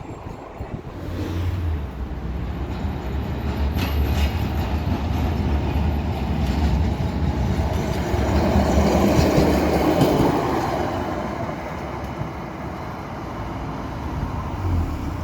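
Milan ATM Series 1500 Peter Witt tram running past with a steady low hum and a rumble that grows, is loudest about two-thirds of the way through, then eases off.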